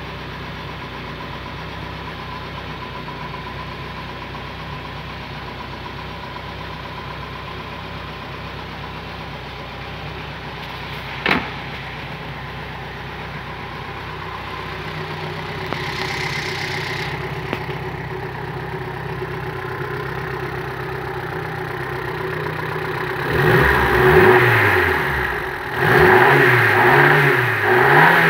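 René Bonnet Missile's four-cylinder engine idling steadily, with one sharp click about eleven seconds in. Near the end it is revved in a few short blips, each rising and falling in pitch.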